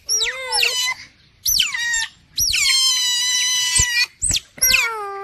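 Otters giving high-pitched squealing calls, four in a row, each sweeping down sharply and then held, the middle one long. It is the begging call otters make when they crowd visitors for food.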